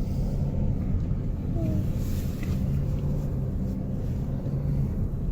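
Car engine running steadily with tyre and road rumble, heard from inside the cabin while climbing a mountain road.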